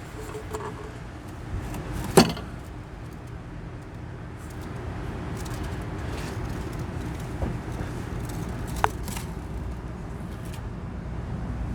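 A few sharp clicks and knocks from hand tools and engine parts being handled, the loudest about two seconds in and another near the end, over a steady low background hum.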